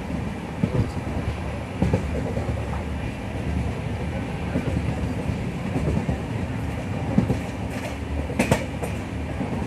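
Passenger express train running on the rails: a steady low rumble, with a few sharp clacks and knocks from the wheels and couplings.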